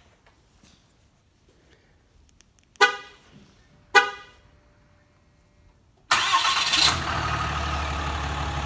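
A 2018 Ram Mega Cab's horn gives two short toots about a second apart, confirming a remote start, then its Cummins 6.7-litre inline-six turbodiesel fires about six seconds in with a loud burst and settles into a steady, quiet idle.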